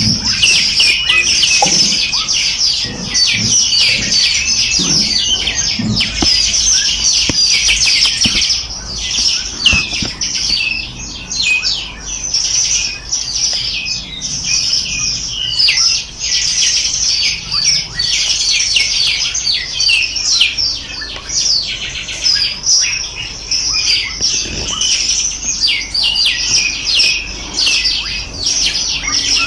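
A chorus of many small songbirds chirping and trilling, rapid high notes overlapping without a break.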